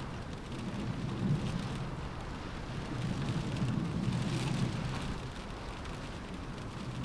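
Rain falling on a window in a windstorm, with a low rumbling wind that swells in gusts about a second in and again around the middle.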